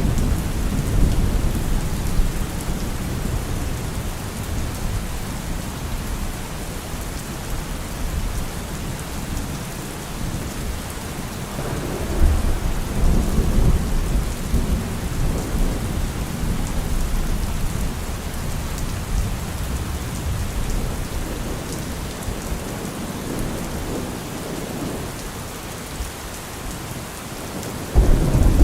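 Steady rain with rolling thunder: low rumbles in the first few seconds and again about twelve seconds in, and a louder peal of thunder that starts suddenly near the end.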